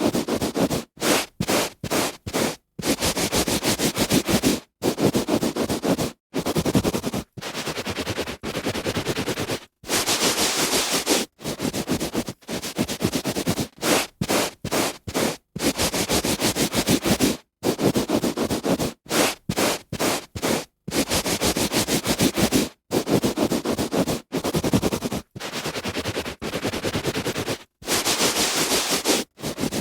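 A hand rubbing back and forth on a carpet, a dry scratchy swishing in repeated strokes of a fraction of a second to about two seconds, broken by short silent gaps.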